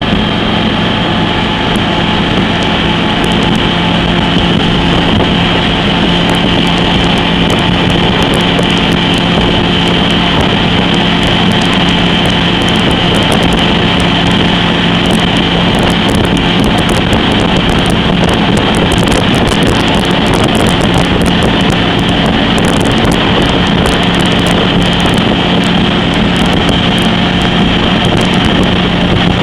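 22-foot Eliminator/Stoker speedboat's engine running steadily at cruise, about 3400 rpm at 70 mph, with a constant engine hum. Wind rushes over the microphone.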